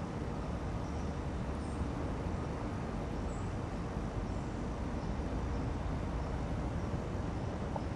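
A steady low outdoor rumble with no single clear event, with a few faint, short high chirps about two and three and a half seconds in.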